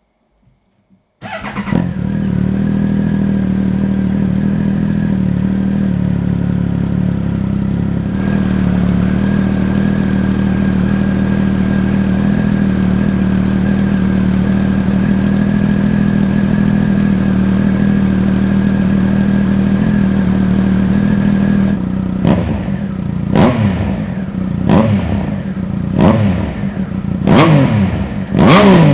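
Triumph Speed Triple RS three-cylinder engine with an Arrow aftermarket exhaust starting abruptly about a second in, then idling steadily for some twenty seconds. Near the end it is blipped in a series of quick revs, each rising and falling sharply.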